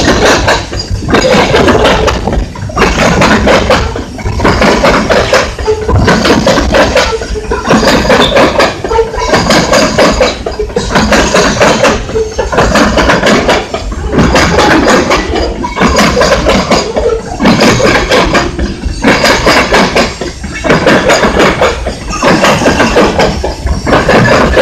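Union Pacific covered hopper cars rolling past, wheels clattering with sharp clicks. The sound swells and dips about every two seconds as car after car goes by.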